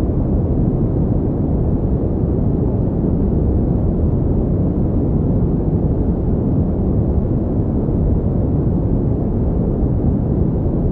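Steady pink noise: a deep, even hiss weighted toward the low end, unchanging throughout.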